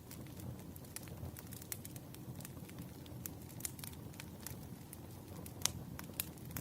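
Firewood burning in a campfire, crackling with irregular sharp pops over a low rumble, with two louder pops near the end.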